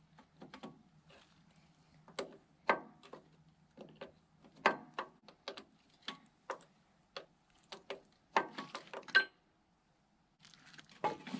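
Irregular light clicks and knocks of hand tools and metal parts being handled while a hydraulic line fitting on a backhoe stabilizer is worked loose and taken off. The knocks stop briefly about nine seconds in.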